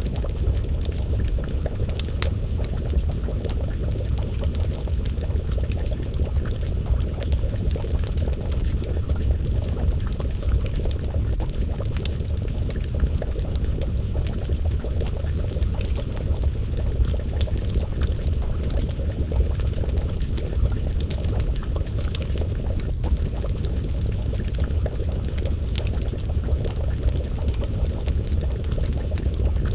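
Wood fire crackling, with frequent small sharp pops over a steady low rumble, mixed with the bubbling of a pot of stew simmering over the flames.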